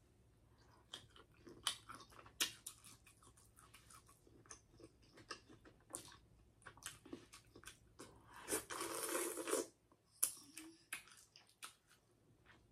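Close-miked chewing of boiled jumbo shrimp: wet, irregular mouth clicks and smacks. About two-thirds of the way through comes a louder rushing sound lasting about a second.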